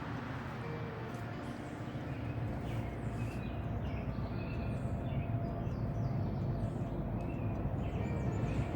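A steady low rumble that slowly grows louder from about two seconds in, with faint short high chirps over it.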